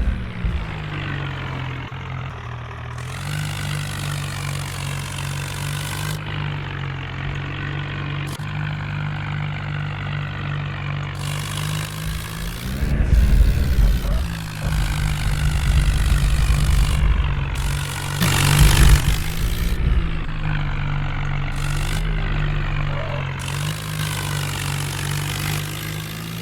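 Tractor diesel engine running steadily, then louder with a heavy low rumble for several seconds past the middle before settling back to its steady note.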